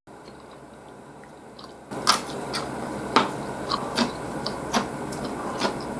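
Close-miked chewing of a mouthful of ramen noodles: wet mouth smacks and clicks at an uneven pace, starting about two seconds in.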